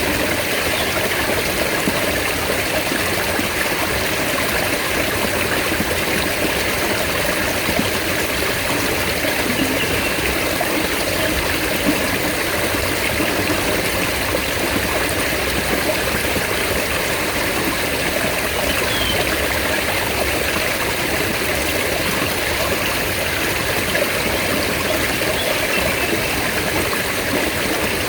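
Mountain stream flowing steadily, a continuous rushing and trickling of water.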